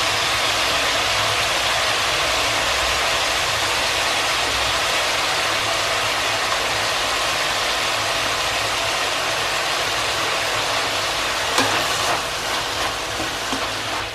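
Vegetables with freshly added ginger and garlic paste frying in a kadai on high heat: a steady sizzle with a low hum underneath, and a few clinks of stirring near the end.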